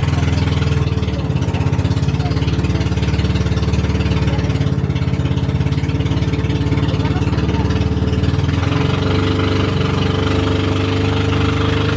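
Boat engine running steadily, its note shifting slightly about nine seconds in.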